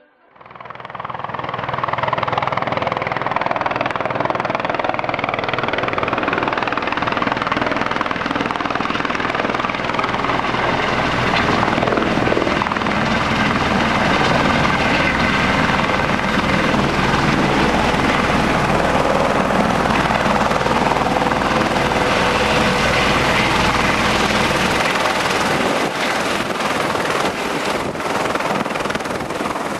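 Helicopter in flight, its rotor and turbine noise fading up quickly in the first couple of seconds and then running steadily.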